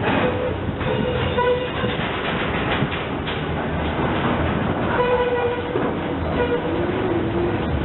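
A train rumbling by close at hand, its wheels running on the rails in a steady loud noise. Two short steady pitched tones, each about a second and a half long, sound over it: one at the start and one about five seconds in.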